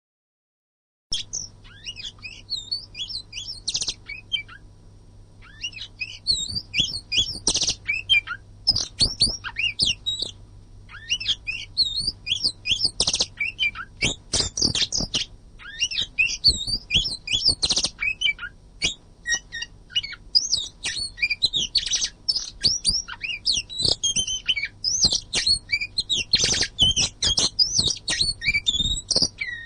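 Oriental magpie-robin (kacer) singing a dense, unbroken song of rapid, varied whistles and harsh chattering notes. It starts about a second in, after a short silence, and a faint steady low hum runs under it.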